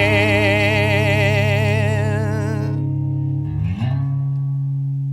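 Guitar's final chord ringing out with a steady wavering vibrato; its upper notes die away a little past halfway. Then a low note slides upward and rings on.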